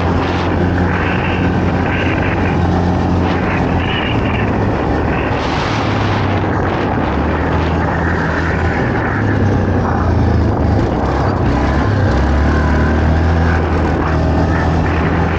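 ATV (quad bike) engine running continuously on the move, its low drone shifting in pitch as the revs change, over a steady rushing noise.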